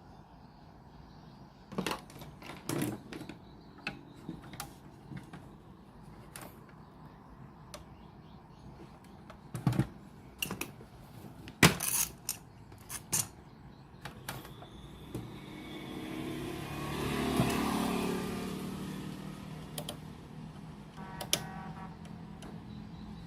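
Scattered sharp clicks and knocks, then a rushing noise that swells and fades over about four seconds.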